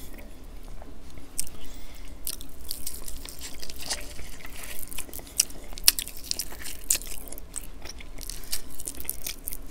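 Close-miked chewing and biting of sweet and sour glazed fried chicken, with crisp crackling clicks from the crust scattered throughout as pieces are pulled apart by hand and bitten.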